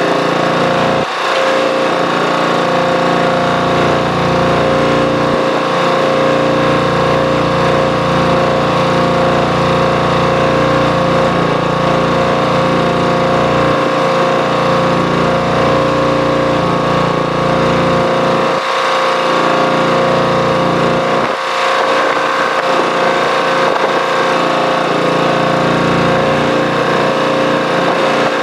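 An engine running steadily with a constant hum, its low rumble dropping away briefly a few times (about 1, 14, 18 and 21 seconds in).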